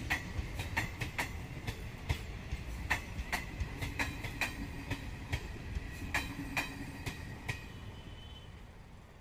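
Indian Railways passenger coaches rolling over the rails, their wheels clicking over the rail joints over a low rumble, with faint wheel squeal. The sound fades near the end as the last coach draws away.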